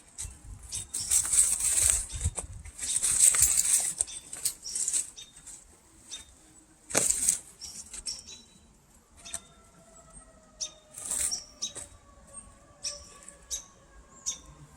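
Rustling and scuffing from someone walking a wooded dirt trail while handling the camera, with scattered clicks and knocks and a sharp knock about halfway through. From a little past halfway, a faint steady hum sinks slowly in pitch under the rustling.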